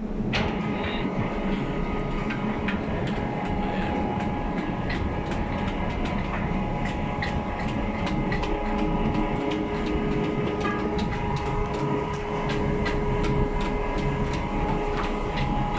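Lifeboat davit winch running, heaving in the newly greased fall wire. A steady mechanical drone with a few held tones, broken by many sharp, irregular clicks.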